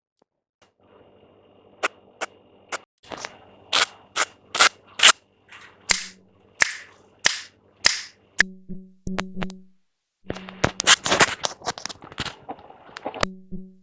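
A series of sharp taps and clicks, about a dozen spaced roughly half a second apart, then a dense cluster of rapid clicks near the end, over a faint steady hum.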